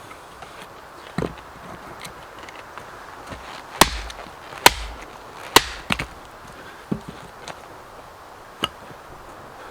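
Firewood being chopped: a blade striking dead wood in about seven sharp, irregularly spaced blows, several in quick succession near the middle.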